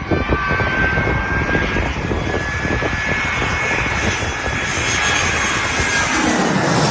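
Jet airliner passing low overhead on landing approach, a loud engine roar with a steady high turbine whine; near the end the pitch drops as it goes past. Wind buffets the microphone.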